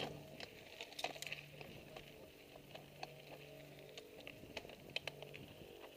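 Mountain bike rolling down a dirt trail: scattered clicks and rattles from the tyres on loose gravel and the bike's parts, over a faint steady low hum.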